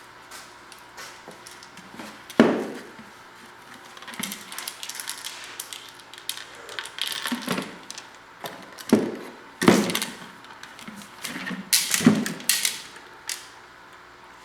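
A series of sharp knocks and thuds with handling clatter, the loudest about two and a half seconds in and a cluster from about nine to twelve seconds in.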